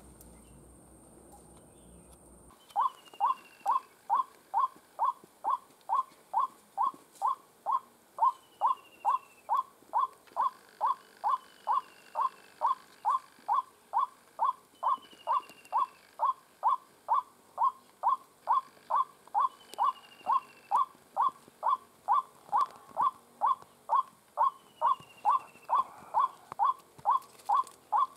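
White-breasted waterhen calling, a monotonous run of short, identical calls at about two a second that starts a couple of seconds in. A fainter, higher falling note cuts in every few seconds.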